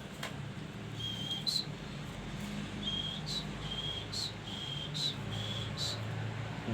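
Prinia (prenjak) calling repeatedly: about a dozen short high calls, each a brief flat note ending in a sharp upward chip, over a low steady hum.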